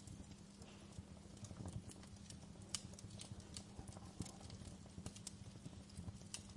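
Wood fire in a fireplace crackling: irregular sharp pops and snaps over a low, steady rumble of the burning fire, with one louder pop a little under three seconds in.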